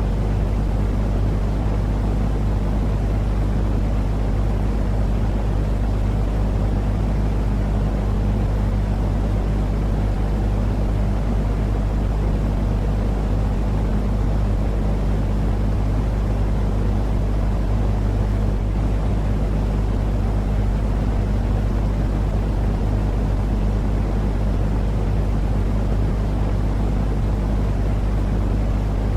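Continuous white-noise sleep sound, deep and rumbling with a steady low hum, like an engine drone, and it does not change at all.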